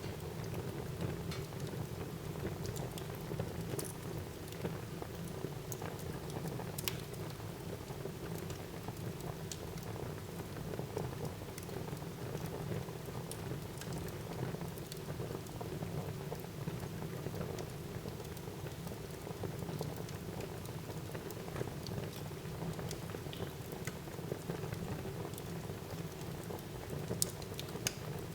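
Wood fire burning in a fireplace: a steady rushing hiss with scattered crackles and pops, a couple of sharper pops about seven seconds in and near the end.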